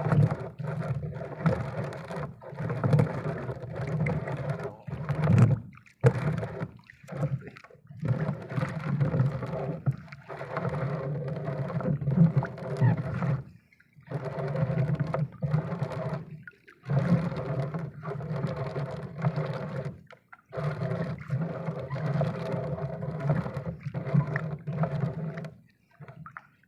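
An engine running at a steady pitch, cut by several abrupt breaks into silence.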